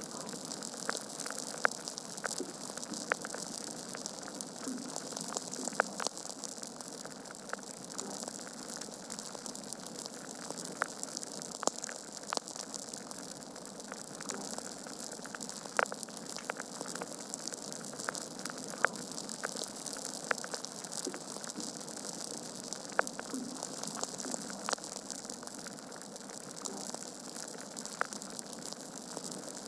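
Wood fire burning in a fireplace: a steady soft hiss with irregular crackles and sharp pops from the logs, a few louder pops standing out.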